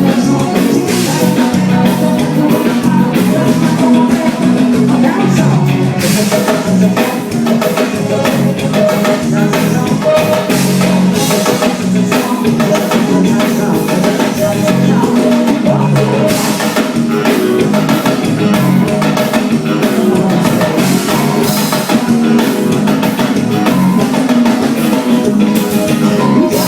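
Forró band playing, with drum kit and singing over a steady beat.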